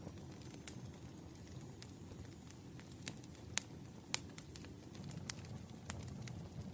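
Wood fire crackling, with sharp irregular pops over a low, steady rumble of the burning logs.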